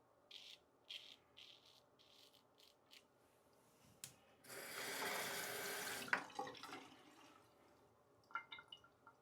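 Water tap running briefly into a sink for about a second and a half, the loudest sound, with a few drips after it. Before it comes a row of short, soft scraping strokes, about two a second; near the end come a few light clinks.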